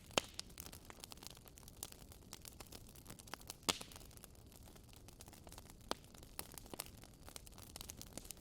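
Wood fire burning in a fireplace, crackling with irregular sharp pops over a low steady rush of flame. The loudest pops come just after the start, about three and a half seconds in and about six seconds in.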